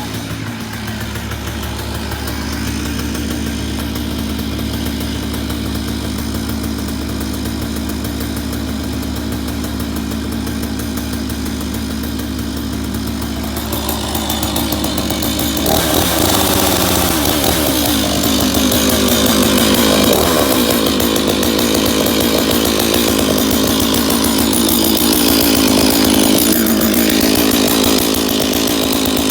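Stihl MS461 two-stroke chainsaw running as it warms up, fitted with a custom billet-aluminium muffler cap. It runs steadily at first, then gets louder about halfway through and stays up.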